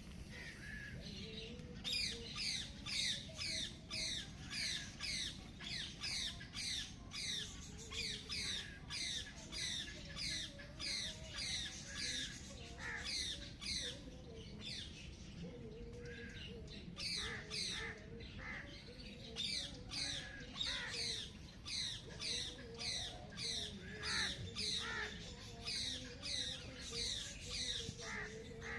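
A bird calling a rapid series of sharp downslurred notes, about two to three a second, in long runs with short pauses between them.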